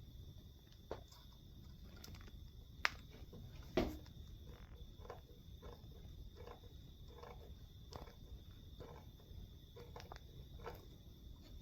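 Faint, scattered clicks and knocks of tools and metal engine parts being handled, with two sharper clinks about three and four seconds in. Underneath is a low steady hum and a thin high whine.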